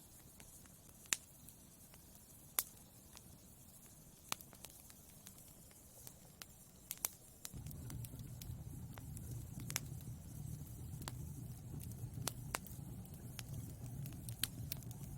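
Wood fire burning in a fireplace, crackling with scattered sharp pops. About halfway through, a steady low rumble of flames comes in and continues under the pops.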